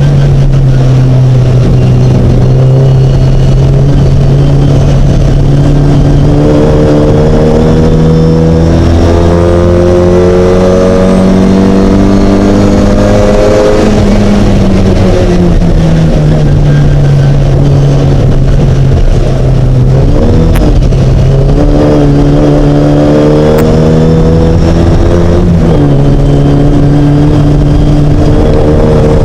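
Mini race car's engine running hard and loud, its note climbing slowly and falling back a few times as the revs build and drop.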